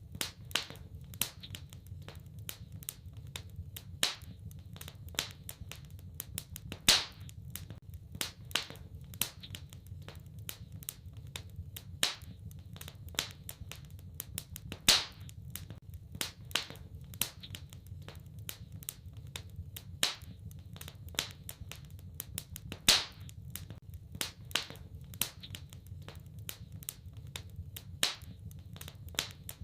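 Wood fire in a fireplace crackling, with irregular sharp snaps and a louder pop every few seconds over a low steady rumble.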